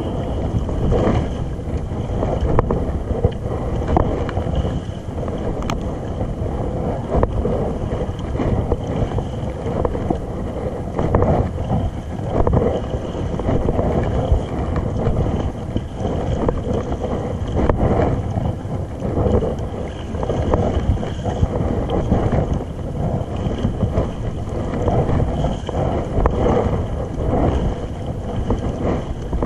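Wind rumbling on the microphone over water sounds on a sea kayak.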